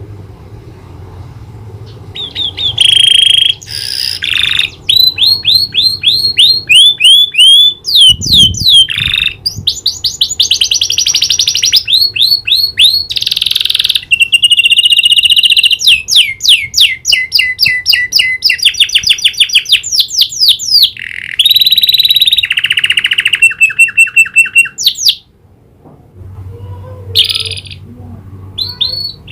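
Domestic canary singing loudly in long phrases of fast repeated sweeping notes, rapid trills and held notes, with short pauses between phrases; its song is filled in with learned prenjak (prinia) call phrases.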